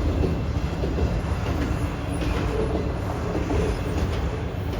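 Long freight train of autorack cars rolling past: a steady rumble of wheels on the rails.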